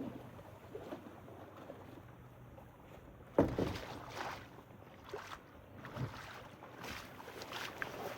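Kayak on the water: paddle strokes splashing and knocks against the hull, the loudest knock about three and a half seconds in.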